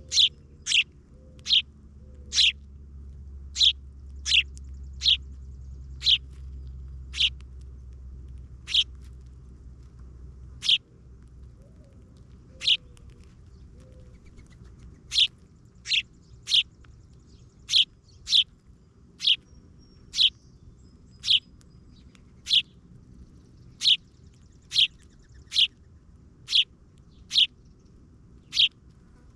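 A small songbird repeating a single sharp, high chirp, about one a second, with a sparser stretch in the middle. A low steady rumble runs underneath and stops about a third of the way in.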